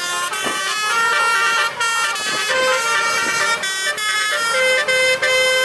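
Basuri musical truck horns playing a tune: several loud, buzzy horn notes held together and stepping from one pitch to the next.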